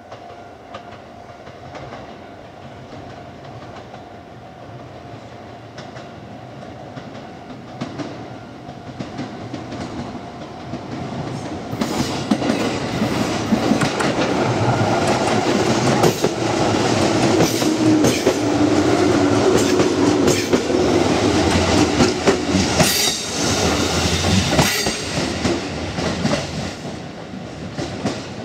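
JR East 205 series 3100 subseries electric commuter train approaching and passing close by. It grows louder from about ten seconds in, with wheels clacking over rail joints, and fades again near the end.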